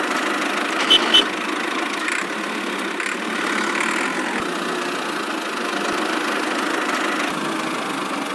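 A small engine idling steadily, with two sharp clicks about a second in.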